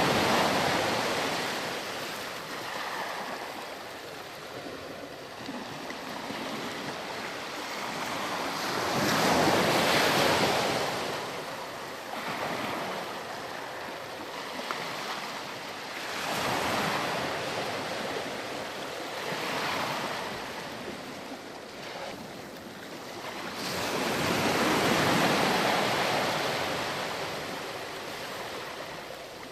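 Ocean waves breaking and washing up a beach: a steady rush of surf that swells and ebbs, with louder surges every few seconds, the strongest near the start, about ten seconds in, and about twenty-five seconds in.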